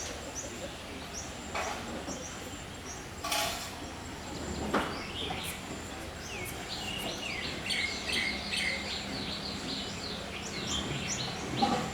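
Small birds chirping, with a dense run of short, quick, downward-sliding chirps in the second half, over steady outdoor background noise and a few brief clicks.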